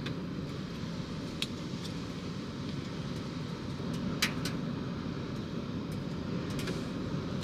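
Steady rumbling noise of rain at the seashore, with no engine note in it. A few sharp clicks cut through it: one about a second and a half in, and two close together around four seconds in.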